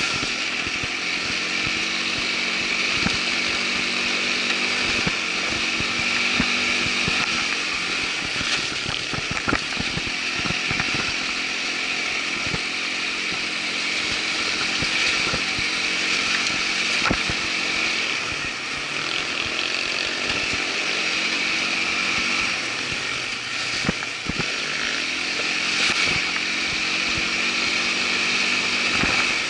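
Irbis ATV 200 quad bike's small single-cylinder engine running steadily, its speed rising and falling, with scattered short knocks throughout.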